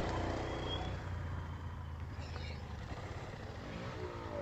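Four-wheeler engine idling low and steady, with a brief rising rev near the end.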